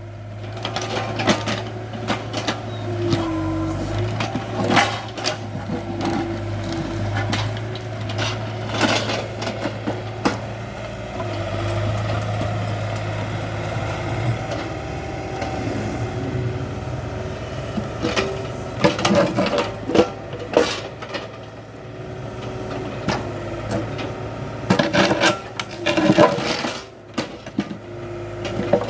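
Hydraulic excavator's diesel engine running steadily, with scattered knocks and clatter from the bucket working earth and rock, bunched in two busier spells in the latter part.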